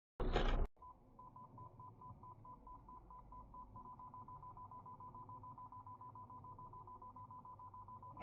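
A short burst of noise, then a steady electronic beep tone pulsing rapidly, about five times a second, like a telephone signal tone. Another short burst of noise comes near the end.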